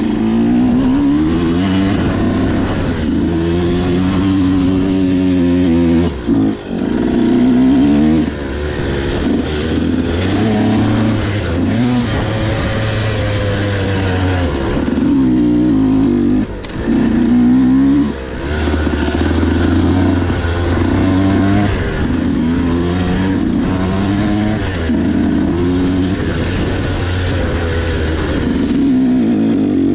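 Motocross bike engine revving up and down over and over as it is ridden, with a few short drops in the throttle.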